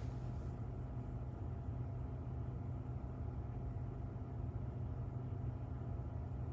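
2019 Mazda CX-5's engine idling in park, heard from inside the cabin as a steady low hum.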